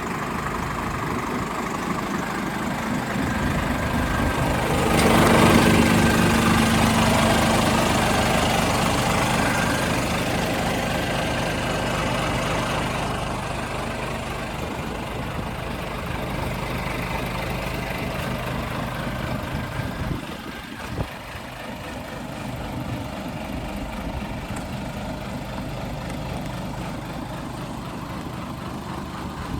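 Scania P500 truck's 13-litre straight-six diesel engine running at idle. It gets louder about five seconds in, then eases back to a steady idle. A single short knock comes about two-thirds of the way through.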